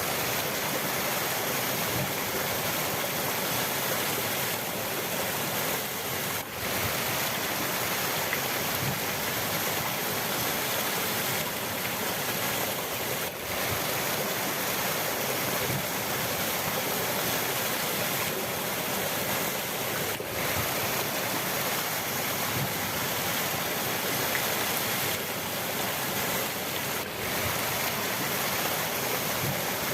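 River water flowing steadily: an even, continuous hiss of moving water, with a brief dip in level about every seven seconds.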